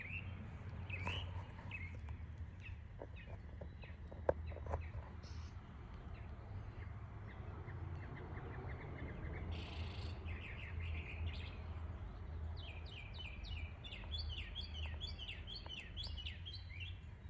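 A songbird that mimics other birds sings a varied run of phrases. It starts with scattered short chirps, then from about halfway through sends out rapid strings of quick repeated downslurred notes. A steady low hum runs underneath.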